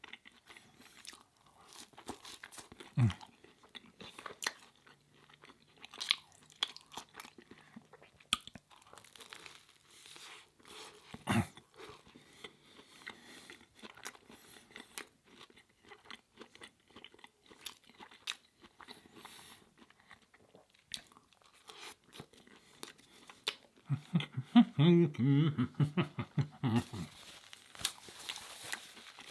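Close-miked eating: scattered wet clicks and crunches of food being bitten and chewed, with a short mumbled voice about twenty-four seconds in.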